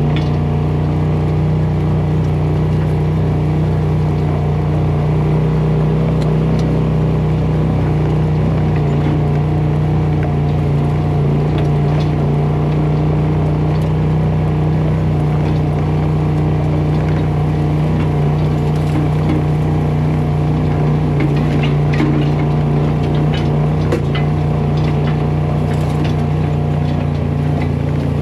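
A vehicle's engine running at a steady, unchanging speed, with a few light clicks and rattles in the second half.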